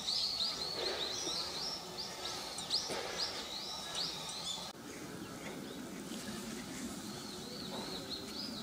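Small birds chirping in quick, high, repeated calls over steady outdoor background noise; the chirping breaks off sharply about halfway through and picks up again near the end.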